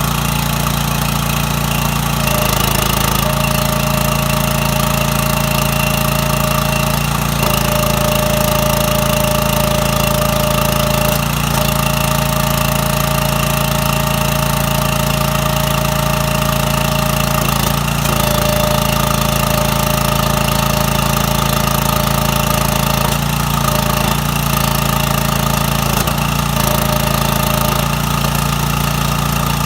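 Small gasoline engine from an old generator running steadily, driving a wood splitter's newly replaced hydraulic pump. A higher whine comes and goes several times, each stretch lasting a few seconds.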